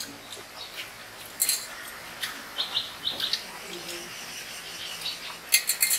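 Small birds chirping in short, high bursts, scattered through and clustered near the end.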